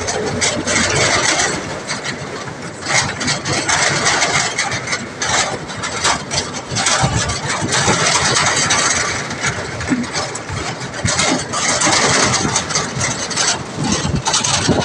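A vehicle engine running on the move, under a loud rushing noise that swells and dips every second or so.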